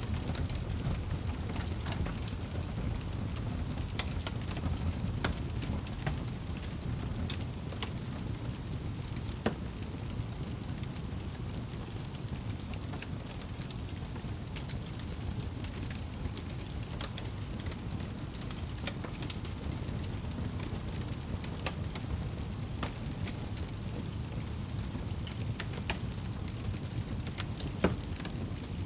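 Wood fire crackling in a fireplace: a steady low rumble of flames with scattered sharp pops and snaps, the loudest a little under ten seconds in and near the end.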